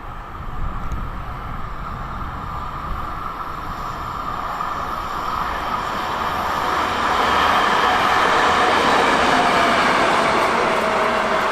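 A train approaching through the station, growing steadily louder, its rumble joined by a high whine and, near the end, a slightly falling tone.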